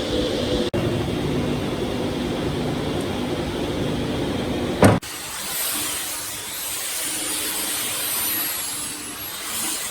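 Electric woodworking power tool running steadily, then cutting off abruptly with a sharp click about five seconds in; a quieter sound with a faint high whine follows.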